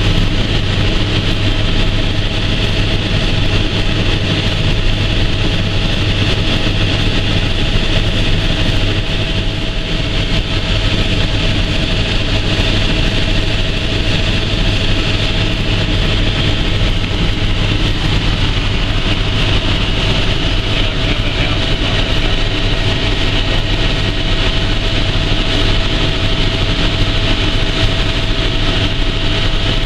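Helicopter in flight, heard from inside the cabin: a steady, loud drone of rotor and engine with a constant whine, unchanging throughout.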